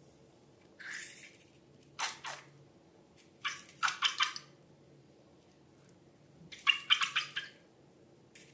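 Wet, sticky slime being handled: short clusters of squelching and crackling, four bursts with quiet gaps between.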